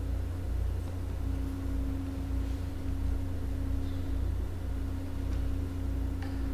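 Steady low hum and rumble with one constant tone held over it, and a few faint ticks.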